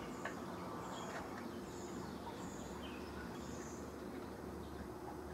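Faint outdoor ambience with small birds chirping now and then over a steady low hum, and a couple of light clicks in the first second or so.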